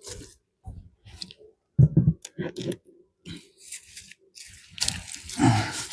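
Wooden beehive parts and tools being handled as the hive is worked: a series of scrapes, clicks and knocks, the loudest about two seconds in, then a longer noisy stretch near the end.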